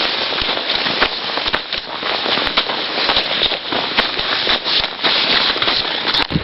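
Boots crunching through snow: a dense, irregular crackling of many sharp clicks.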